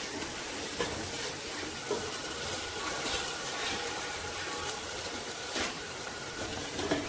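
Onion and tomato masala sizzling steadily in a pan over a gas flame, with a few knocks and scrapes of a plastic spatula against the pan.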